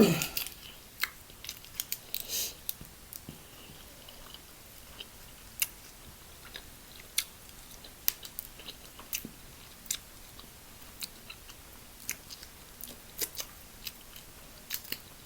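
Close-miked eating: quiet chewing with scattered, irregular sharp mouth clicks and smacks.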